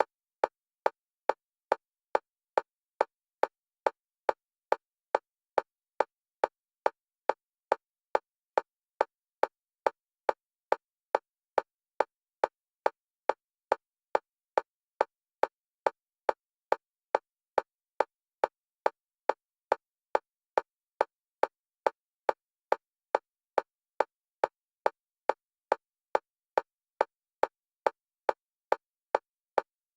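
Electronic metronome clicks for EMDR bilateral stimulation, one short click at a time alternating between the left and right channels, in a steady, fast beat of about two clicks a second.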